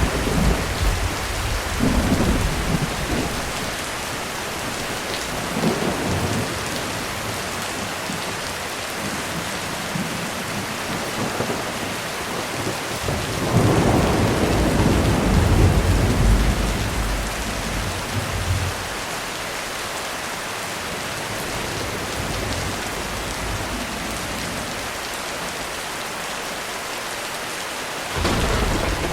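Heavy rain falling steadily on a roof, with thunder rumbling through it. A short roll comes near the start and another briefly a few seconds later; the longest, loudest roll comes about halfway through and lasts several seconds, and a new one begins right at the end.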